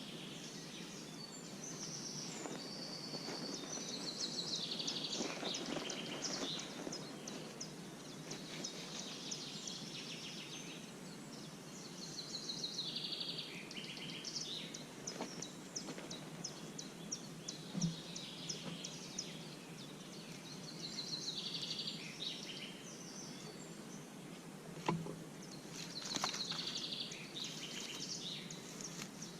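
Songbirds chirping and trilling repeatedly over a steady background rush of outdoor noise. Two short sharp knocks come through, one just past the middle and one later.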